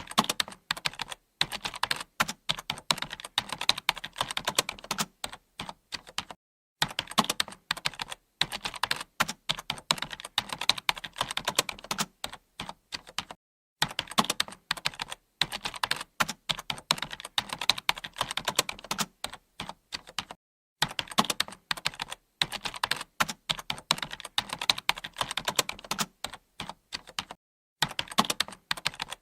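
Typing on a computer keyboard: rapid, dense key clicks in long runs, each broken by a short silent pause about every seven seconds.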